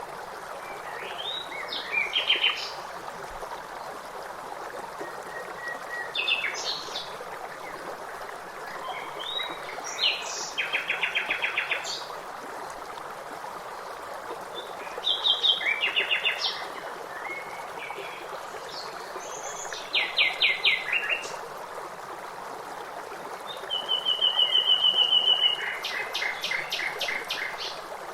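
Songbirds singing in short phrases every few seconds, several of them rapid trills, with one steady whistled note about 24 seconds in, over a constant rush of flowing water.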